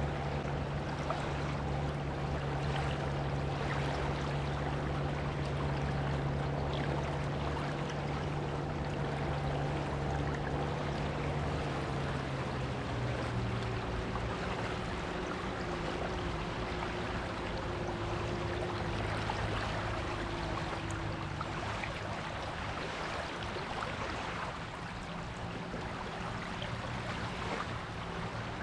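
Surf washing on a beach, a steady hiss of moving water. A low engine drone runs underneath and shifts lower in pitch about halfway through.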